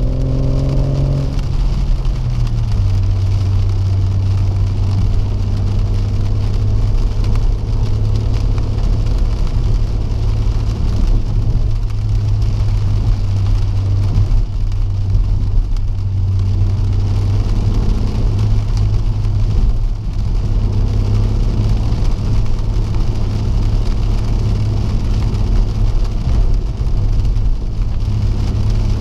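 BMW M140i's turbocharged 3.0-litre straight-six heard from inside the cabin, its pitch rising briefly at the start and dropping about two seconds in, then running steadily at low revs. Tyre noise on the wet road and rain on the windscreen make a constant hiss underneath.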